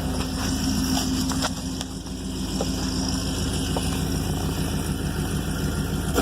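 Pontiac G8 GT's V8 idling steadily through long-tube headers and a Solo Performance Mach Shorty cat-back exhaust, a loud, deep exhaust note.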